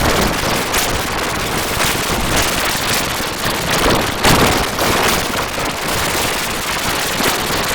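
Loud, dense crackling noise like static or heavy rain, cutting in suddenly and holding steady, with scattered sharper cracks.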